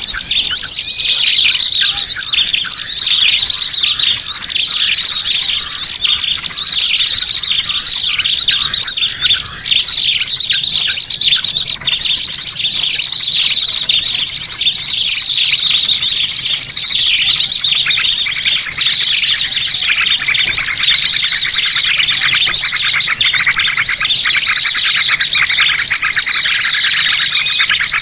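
Dense, continuous chorus of many small birds chirping and trilling rapidly, played loud as a bird-trapping lure call (master pikat).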